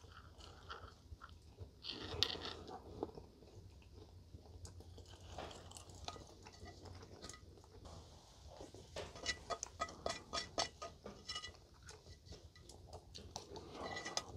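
Close-up chewing and crunching of a mouthful of fried breakfast (bacon, fried potatoes, scrambled eggs), with a plastic spoon scraping and clicking in a metal skillet. The small clicks come thick and fast in the second half.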